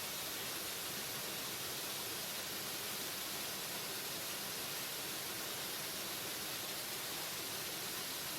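Waterfall: steady, even rush of falling water, hiss-like with the most energy in the upper range.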